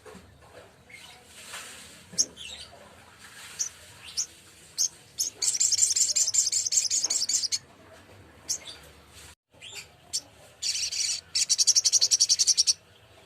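Sogok ontong bird singing: scattered short, high chirps, then two loud, fast high-pitched trills, the first about five seconds in and the second near the end, each lasting about two seconds.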